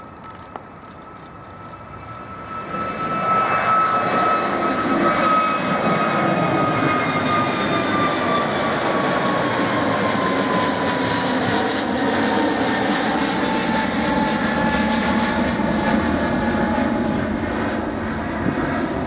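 Jet airliner passing low overhead: its engines build to a loud roar within a few seconds, and their whine slides steadily down in pitch as the plane goes by.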